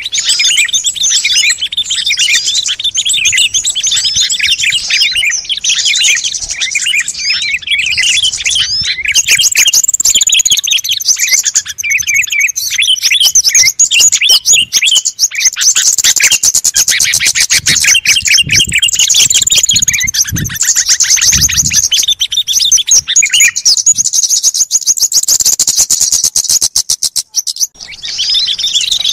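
A chorus of small songbirds chirping and calling over one another, dense and loud, with a fast, rattling trill running through the middle and a brief lull near the end. It is the kind of mixed-bird recording played as a lure to draw wild birds in.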